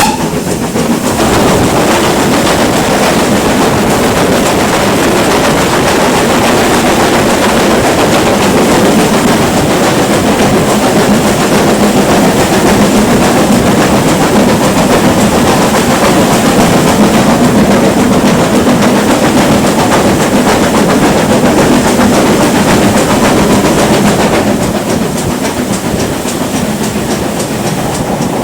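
Steam train running, a loud, steady noise that eases off somewhat near the end.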